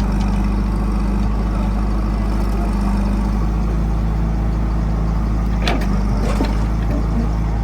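Diesel engine of a backhoe loader or tractor running steadily, with a couple of short knocks about six seconds in.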